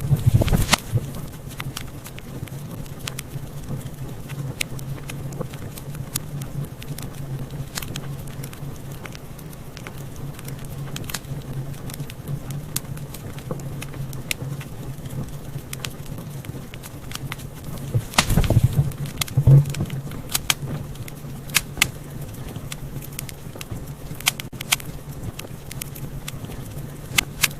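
Wood fire crackling in a fireplace: sharp pops and snaps over a steady low rumble of the flames, with bursts of louder pops at the start and again about two-thirds of the way through.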